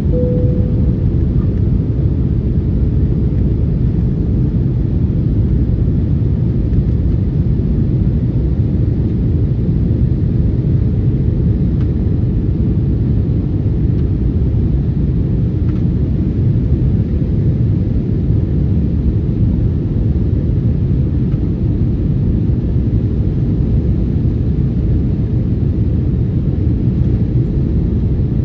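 Steady cabin noise of an Airbus A321 in flight: a low, even rumble of engines and airflow with a faint steady hum, unchanging throughout.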